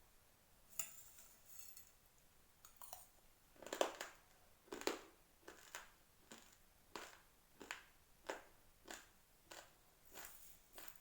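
Raw uncooked rice grains crunched between the teeth in steady chewing, about three sharp crunches every two seconds from about four seconds in. A brief rustle comes about a second in.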